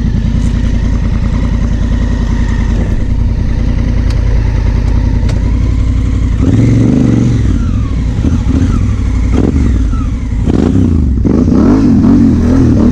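Honda Africa Twin CRF1000L's parallel-twin engine running steadily, then pulling harder about six seconds in. Near the end the revs rise and fall repeatedly as the bike goes through a mud hole.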